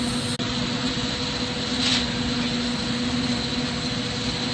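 Steady rushing roar of an oxygen-propane glassworking torch flame over a steady low hum, with a brief hiss about two seconds in.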